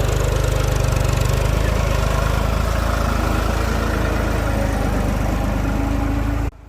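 Tractor engine running steadily with a heavy low rumble and a fast, even chugging, cutting off suddenly near the end.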